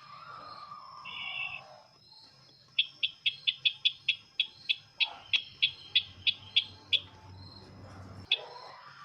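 Sisintar ladang bird call used as a lure for bird trapping: a short burbling call about a second in, then a rapid series of sharp high chips, about four a second, from about three to seven seconds in. A faint low hum runs underneath.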